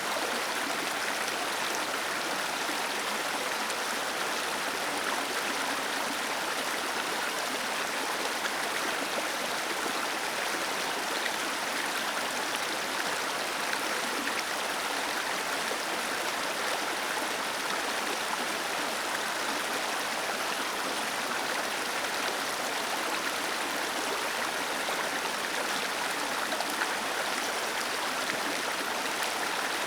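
Small waterfall cascading into a stream, a steady, even rush of falling water.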